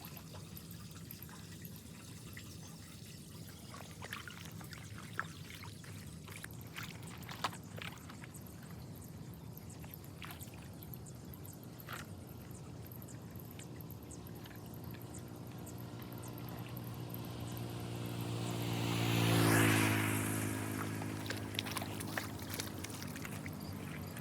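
Floodwater pouring down a storm drain, a steady rushing splash with a few small knocks. About three-quarters of the way through, a vehicle passes by, rising to the loudest point and then fading.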